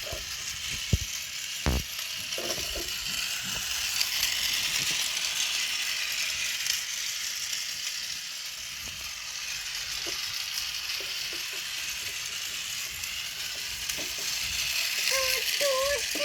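Toy train running, a steady whir of its small motor and gears, with a few knocks in the first couple of seconds. Near the end come a few short wavering calls.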